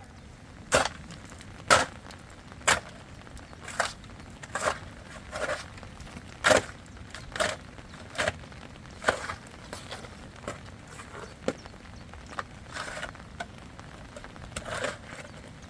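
A series of short, sharp knocks, roughly one a second and somewhat uneven, over a faint steady background.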